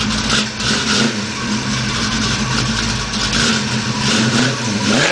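Carbureted Ford Mustang engine idling steadily while it warms up after a cold start, then beginning to rev up right at the end.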